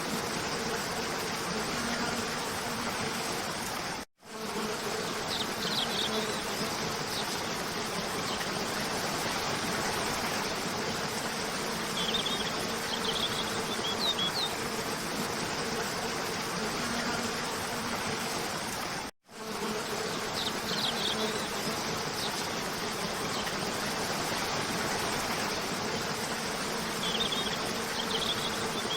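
Steady rush of a cascading waterfall with a faint low hum under it, and small birds giving short clusters of high chirps every few seconds. The sound cuts out completely for a split second twice, about 15 s apart, where the recording loops.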